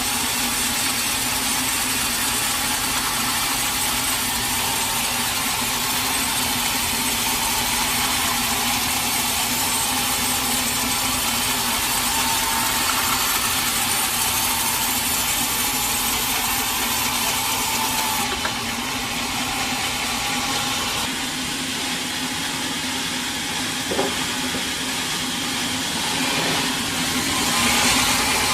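Sawmill saw running through a teak log, a steady loud mix of motor hum, whine and cutting hiss. About two-thirds of the way through the high hiss drops away, a single sharp knock comes a few seconds later, and the cutting swells louder again near the end.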